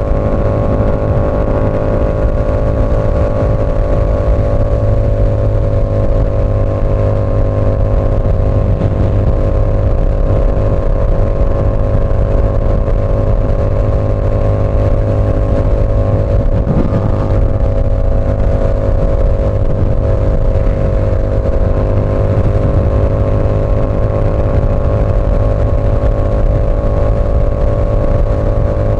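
Yamaha R7's 689 cc parallel-twin engine through an SC Project CR-T exhaust, cruising at steady, nearly constant revs, with a small change in the note about halfway through.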